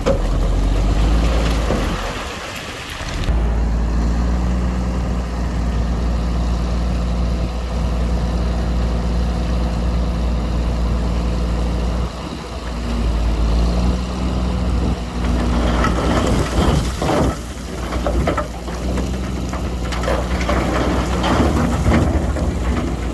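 Diesel engine of heavy earthmoving machinery running steadily with a deep drone. It breaks off briefly about two and twelve seconds in. In the last several seconds irregular clanks and knocks ride over it.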